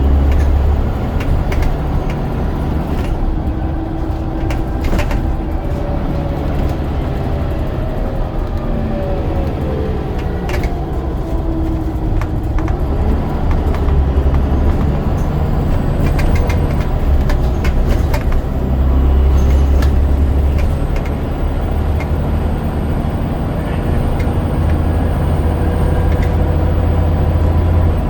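Scania DC9 9.0-litre diesel engine of a double-decker bus pulling along, its low drone rising and falling in pitch several times as the ZF Ecomat automatic gearbox works through its gears. Scattered rattles and knocks from the body.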